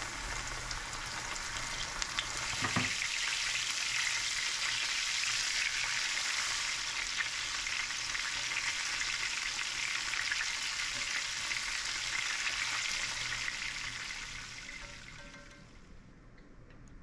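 Catfish fillets frying in hot oil in a cast-iron skillet: a steady, busy sizzle, with a single knock about three seconds in. The sizzle fades away near the end.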